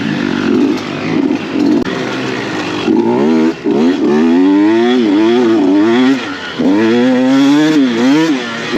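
Dirt bike engine being ridden, running low and rough for the first few seconds, then revving up and dropping back several times in quick succession.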